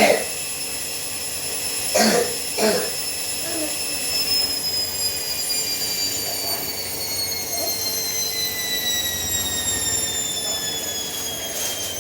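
Hoover 7 kg washing machine on its final 800 rpm spin: the drum motor gives a high whine of several tones that falls steadily in pitch from a few seconds in, as the spin winds down. Two short louder sounds come about two seconds in.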